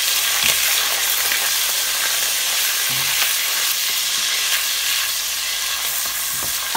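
Ginger-garlic paste frying in plenty of hot ghee, with a steady sizzle, as a silicone spatula stirs it around the pot with a few soft knocks.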